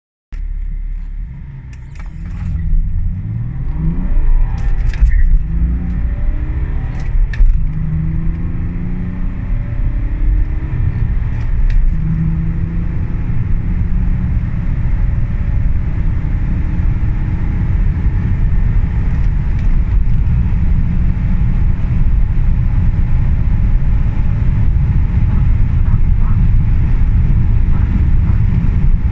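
BMW E60 530d's chip-remapped 3.0-litre straight-six turbodiesel accelerating hard through its manual gears, the revs climbing and dropping back at each of several quick gear changes in the first dozen seconds, then pulling long and slowly in a high gear. Road and wind rumble build steadily as speed rises.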